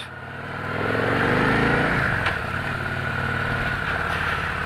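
Victory Cross Country's V-twin engine accelerating under way. Its pitch rises for about two seconds, then drops back at an upshift and holds steady, with wind rush over it.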